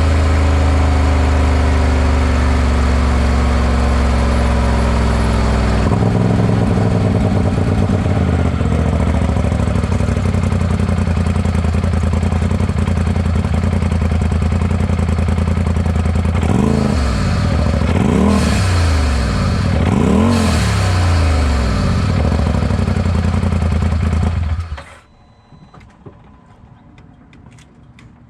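2020 Polaris RZR Pro XP4's turbocharged twin-cylinder engine, with a Gibson exhaust, running at idle. It is blipped three times in the second half, each rev rising and falling with a short hiss from the aftermarket blow-off valve. The engine then shuts off abruptly.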